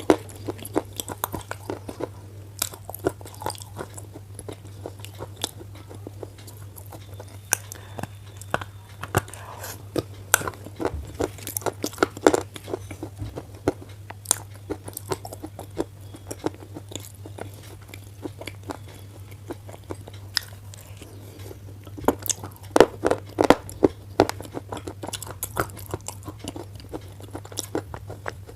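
A black slate pencil being bitten and chewed: irregular crunchy snaps and grinding clicks, with a cluster of loud bites near the end. A steady low hum runs underneath.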